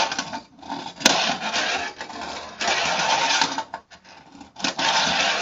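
Fingerboard wheels rolling and rattling across a ramp in runs of about a second, with a sharp click about a second in as the board lands or knocks.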